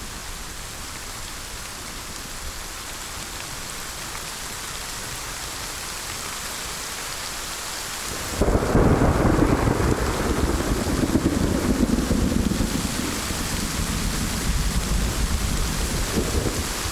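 Steady heavy rain hissing. About eight seconds in, a loud crack of thunder breaks out and rolls on as a low rumble, fading slowly toward the end.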